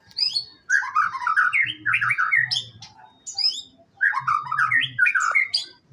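White-rumped shama (murai batu) singing close by: rapid, varied whistled and chattering phrases broken by short pauses.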